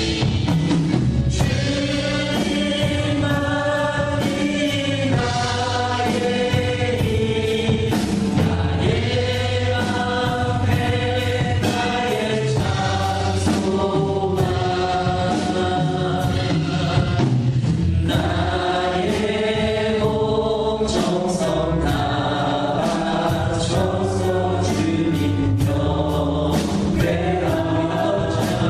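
A choir singing a Christian praise song in long held notes over steady instrumental accompaniment.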